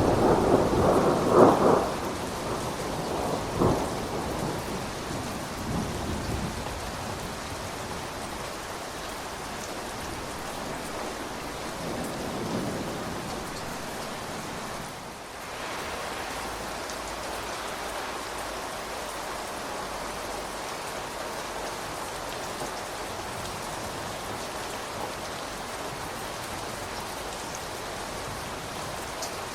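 Steady rain falling, with a roll of thunder in the first few seconds that fades away, and a fainter rumble about halfway through.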